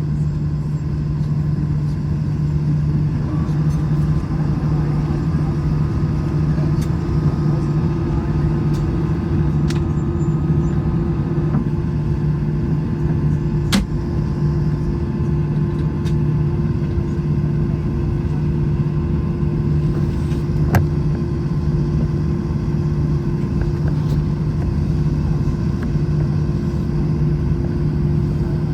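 Steady low cabin drone inside an Airbus A321 jetliner on the ground before takeoff, a constant hum with a few faint clicks.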